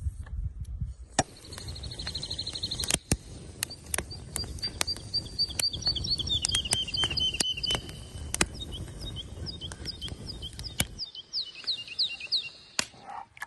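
Songbirds singing: a quick high trill, then a long run of rapid chirping notes. Scattered sharp clicks and a low rumble sit underneath, and the rumble stops about eleven seconds in.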